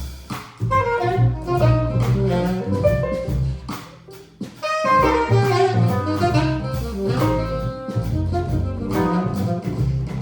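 Small jazz band playing an instrumental passage, with alto saxophone and trumpet carrying the melody over bass, drums and piano. There is a short break in the playing about four seconds in.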